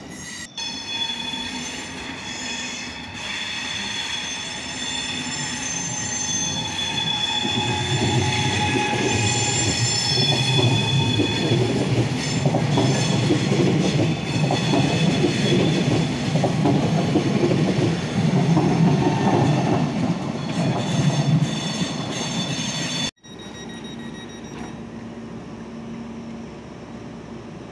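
Regional electric train running in along the platform: high steady squeals over a rumble and wheel clatter that grow louder and peak near the end. After a sudden cut, a quieter steady hum from the train at the platform.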